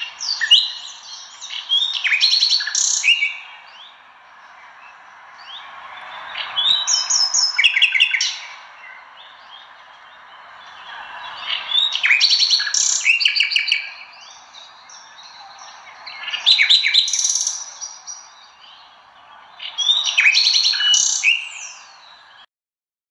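A bird singing: five bursts of quick high chirps and trills, about every four to five seconds, over a faint steady background hiss. It cuts off suddenly near the end.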